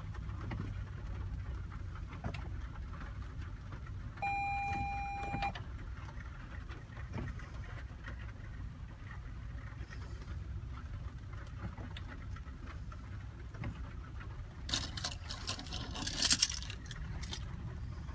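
Low steady rumble with a single electronic beep of about a second, about four seconds in, and then a burst of rattling clicks near the end.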